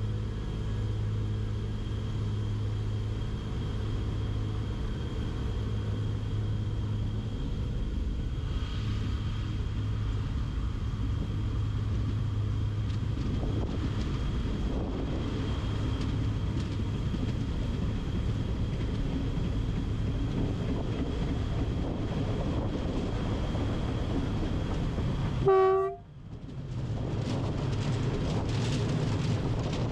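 Train running, a steady low hum, with one short, loud horn toot near the end; the sound then cuts off abruptly and a different, noisier sound follows.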